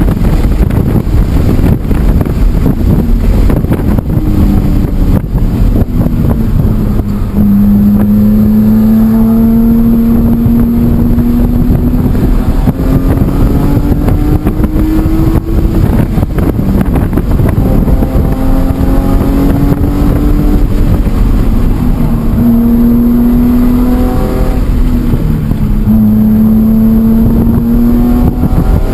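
BMW E46 M3's straight-six running hard on track, its note climbing in pitch in several long pulls with drops and breaks between, over a heavy low rumble of wind and road noise.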